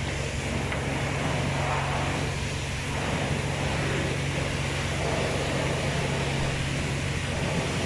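Steady low hum of an idling car with an even hiss over it.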